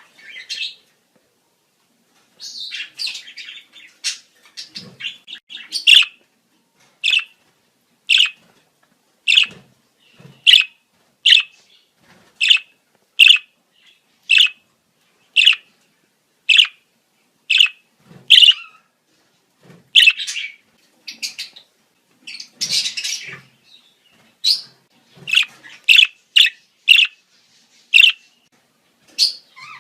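Budgerigars calling in breeding-season chatter: sharp single chirps repeated about once a second, broken by stretches of busier warbling near the start, after the middle and near the end.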